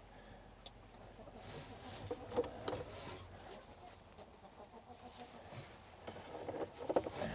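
Hens clucking faintly, with a few soft knocks and rustles.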